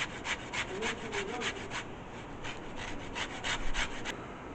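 Lemon peel being zested on a hand zester, with quick rasping strokes about four a second. The strokes come in two runs, with a short pause about two seconds in.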